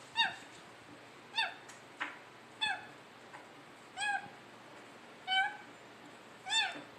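Black-capped caique calling: six short, clear, pitched calls, each rising then falling, about one every second and a quarter. A single sharp click comes about two seconds in.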